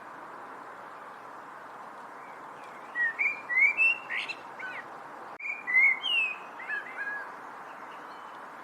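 A songbird singing two short phrases of quick whistled notes that slide up and down, the first about three seconds in and the second just after five seconds, over a steady background hiss.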